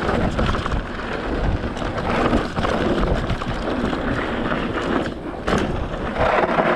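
Wind buffeting the microphone over the rumble and crunch of mountain-bike tyres rolling on a dirt trail while the electric mountain bike is ridden.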